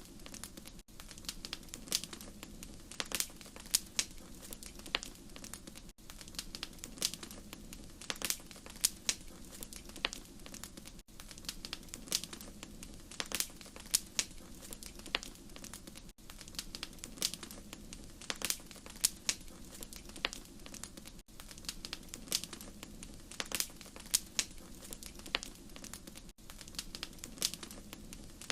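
Wood fire crackling in a fireplace: irregular sharp pops and snaps over a steady low hum. The crackle pattern repeats about every five seconds, with a brief dip at each repeat.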